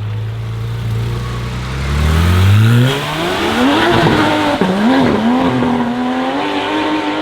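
A sports car's engine running at a low steady note, then revving up hard as it launches, the pitch climbing steeply. The pitch dips and wavers briefly about four and a half seconds in, then holds high and keeps rising slowly, over the hiss of wet tyres on a rain-soaked road.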